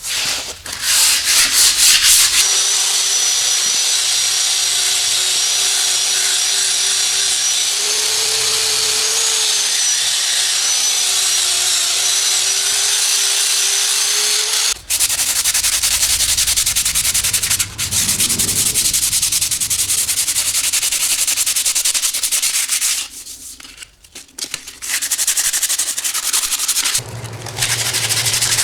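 A 36-grit sanding disc on a power tool grinding down hardened body filler in the casting holes of a cast tractor wheel: a steady abrasive rasp with a motor whine, broken by a short pause about three quarters of the way through before it starts again.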